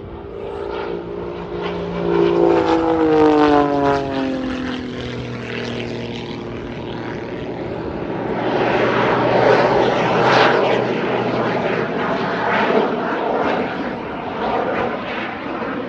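Jet-assisted Pitts S2S aerobatic biplane flying by, its piston engine and propeller sounding together with its small jet engines. The engine tone falls in pitch as it passes in the first few seconds, then a louder rushing pass comes from about eight seconds in.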